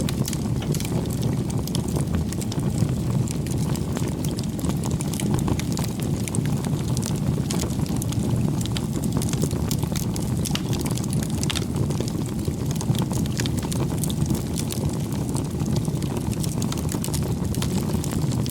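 Wood bonfire burning: a steady low rush of flame with frequent sharp crackles and pops from the burning wood.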